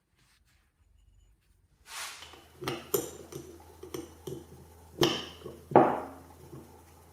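Metal tools and parts clinking and knocking on a hard surface at irregular intervals, starting about two seconds in, with the two loudest knocks near the end, over a low steady hum that begins at the same time.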